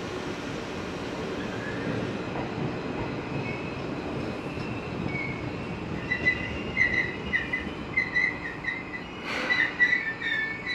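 Seibu 2000 series electric train at a platform: a steady low rumble, then from about six seconds in a choppy, high metallic squeal from the wheels or brakes. There is a short burst of hiss about nine seconds in.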